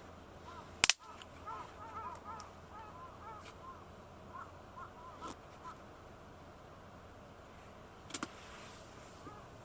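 A flock of birds calling, with many short honk-like notes overlapping through the first half. A single loud sharp crack comes about a second in, and a smaller one comes near the end.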